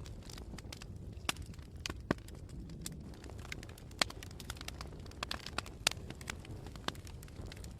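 Campfire burning: a steady low rumble with irregular sharp crackles and pops, a few much louder than the rest.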